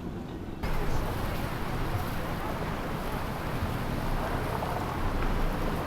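Motorboat engine running under a wash of wind noise on the microphone; the sound cuts in abruptly about half a second in.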